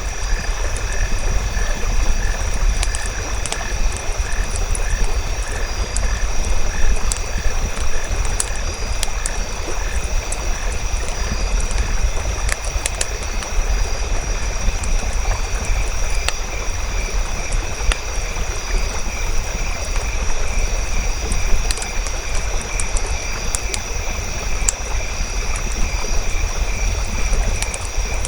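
Campfire crackling with sharp pops over a low rumble, layered with a nature-ambience chorus of rhythmic pulsing animal calls and a steady high insect-like drone.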